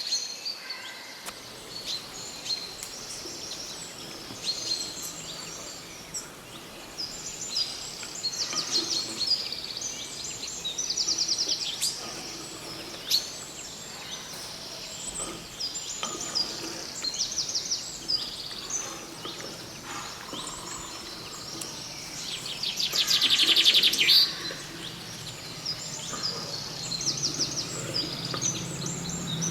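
Several birds chirping and singing, short calls and trills overlapping, with one loud, rapid trill about three quarters of the way through.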